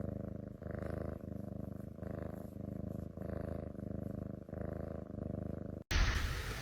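A cat purring steadily and close up, the purr swelling and easing about once a second with its breathing. Near the end it cuts off abruptly into a different, noisier background.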